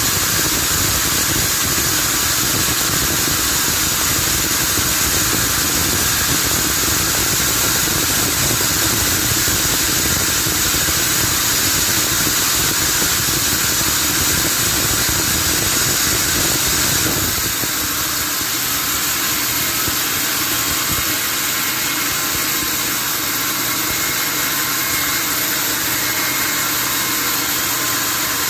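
Sawmill machinery running steadily, with a dense, hissing mechanical noise. About two-thirds of the way through, the deep low rumble drops away and the sound goes on lighter.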